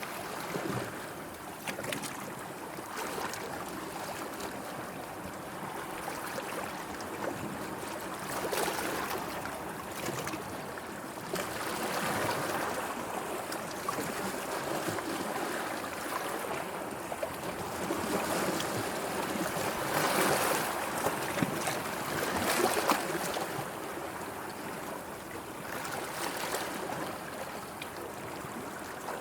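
Sea water lapping and washing in small waves, swelling and easing every few seconds, with a few short splashy clicks.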